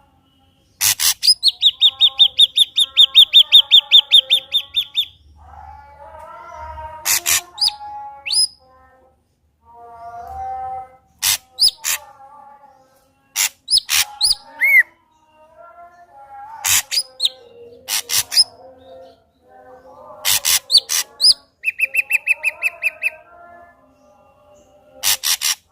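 Ashy drongo singing in full voice: loud, sharp whistled notes and upward-sweeping calls. A fast trill of about five or six notes a second comes about a second in, and a shorter one near the end, with softer, lower warbling between.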